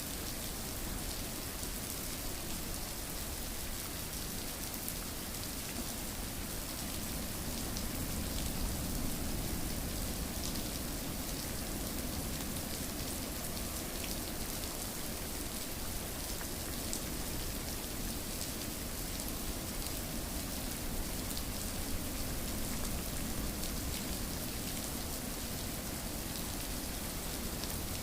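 Steady rain falling, with many small drops ticking on a surface. The sound does not change.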